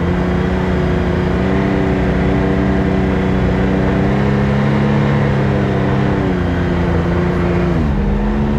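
Can-Am X3 side-by-side's engine running at a steady speed while driving, a steady drone with a low rumble beneath it; near the end the pitch drops as the throttle eases off.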